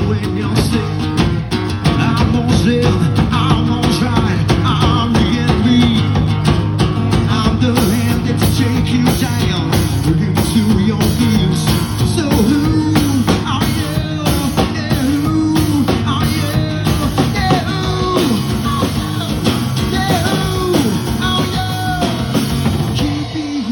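Rock band playing with drum kit and guitar, melodic lines bending in pitch over a steady beat.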